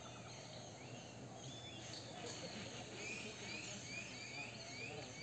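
Faint outdoor background with a bird calling a quick series of short rising notes, about six in a row in the second half.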